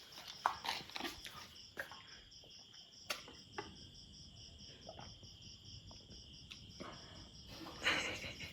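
Crickets chirping faintly in a steady pulsing trill, about five pulses a second, with a few soft clicks and knocks over it.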